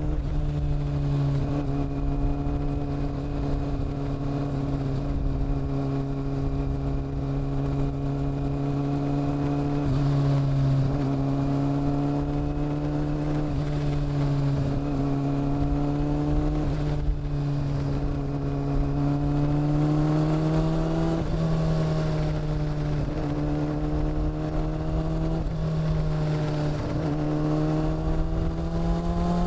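Honda CB400 Super Four's inline-four engine and exhaust while riding, holding fairly steady revs with several brief dips and recoveries of the throttle, then rising gradually over the last third.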